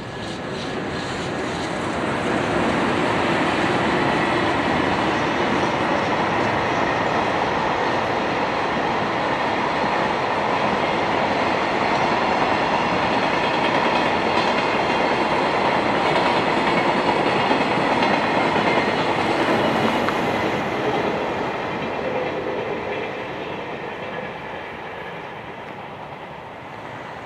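Freight train hauled by an EH500 electric locomotive passing close by, its wagon wheels clattering over the rail joints. It builds up over the first couple of seconds, runs steadily for about twenty seconds, then fades away.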